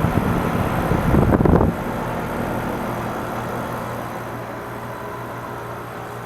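Carrier Comfort Series 13 SEER 5-ton heat pump outdoor unit running steadily, a low compressor hum with the whoosh of its fan. A louder rushing noise lasts for about the first second and a half, then it settles to the steady hum.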